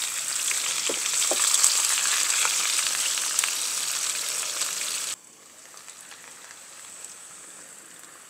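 Potato slices frying in hot oil in a frying pan, a dense crackling sizzle with a few light spatula knocks as they are turned. About five seconds in, the sizzle drops suddenly to a much quieter crackle.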